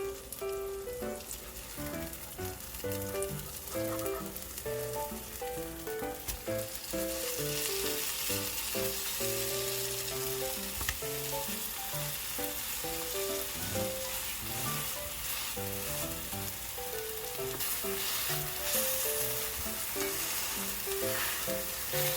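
Food sizzling in a hot frying pan, the sizzle swelling about seven seconds in and carrying on, over light background music.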